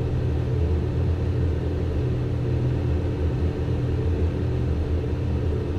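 Steady cockpit noise of a Learjet 60XR business jet on final approach with the landing gear down: an even low rumble of airflow and engines with a steady hum.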